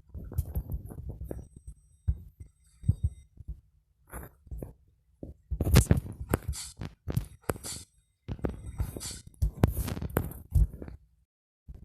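Irregular low thuds and knocks from neighbours, coming in clusters with short pauses between them.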